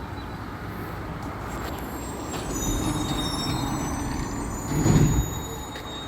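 Recycling truck running and drawing closer, its engine rumble growing, with a thin high squeal about halfway through. About five seconds in comes a brief, loud, low thud.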